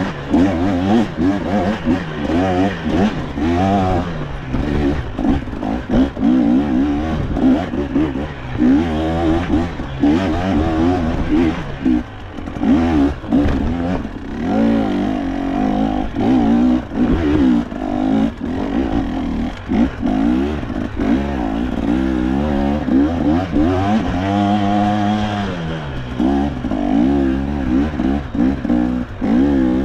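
KTM two-stroke enduro dirt bike engine revving up and down constantly as the throttle is worked over rough trail, with clatter from the bike over the terrain.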